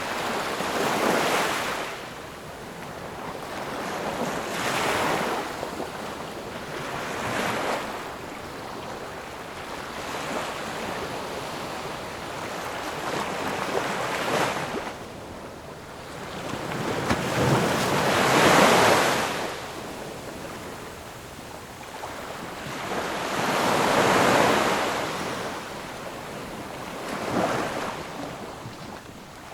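Ocean waves breaking and washing on a shore, surges of surf every few seconds over a steady background wash, the loudest about two-thirds of the way through.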